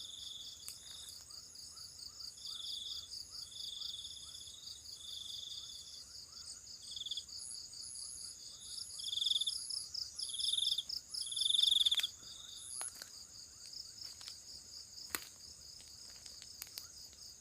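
Night insect chorus: crickets trill steadily, and over them another insect calls in repeated bursts of pulsed trilling, loudest about two-thirds of the way through. A few faint clicks sound now and then.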